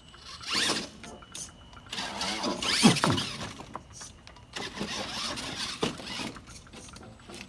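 RC monster truck's electric drive motors whining in three bursts as it crawls over rocks, the pitch rising and falling with the throttle, loudest in the middle burst.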